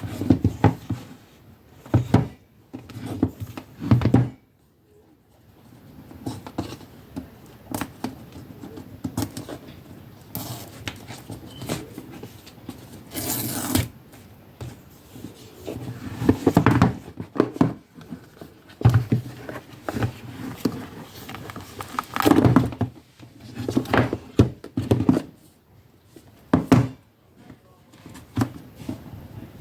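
Hands handling a smartphone box and its packaging: irregular rustles, scrapes and light knocks, with a brief hissing rustle about halfway through.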